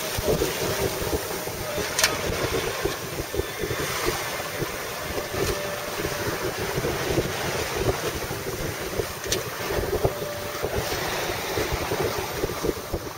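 Wind buffeting the microphone aboard a sailboat under sail, over the steady rush of water along the hull, with a couple of sharp ticks.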